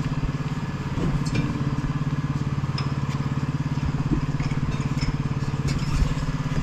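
An engine idling steadily, with a few light clinks and knocks over it.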